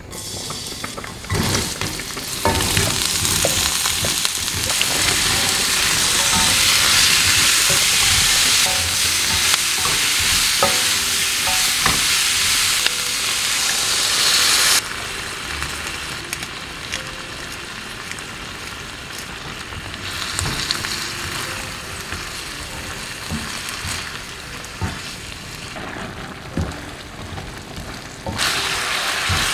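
Hot oil sizzling in a stainless wok as garlic, then vegetables and tofu are stir-fried, with occasional knocks of the silicone spatula against the pan. About halfway the sizzle drops sharply as sauce is poured in, leaving a softer simmering sizzle, and it grows loud again near the end.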